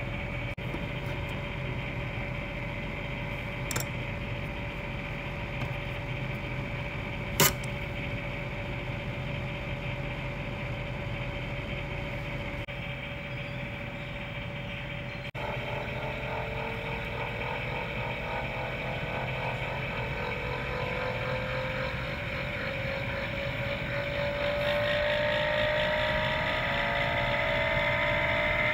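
Daikin air-conditioner outdoor unit running: a steady machine hum with a constant high tone and two sharp clicks. About halfway through, a set of whining tones starts and slowly rises in pitch as the unit speeds up.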